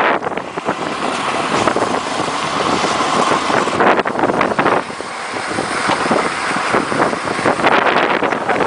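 Ice boat under way on the ice: a steady rushing noise of runners and wind, with wind buffeting the microphone.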